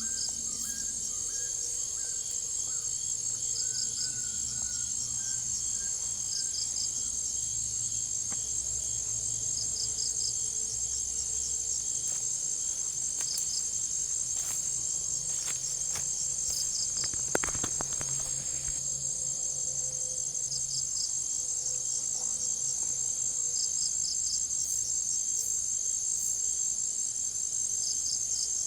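Tropical forest insects at night, chiefly crickets, in a continuous high, pulsing trill. Short groups of chirps repeat every couple of seconds over the trill. A single sharp click sounds about two-thirds of the way through.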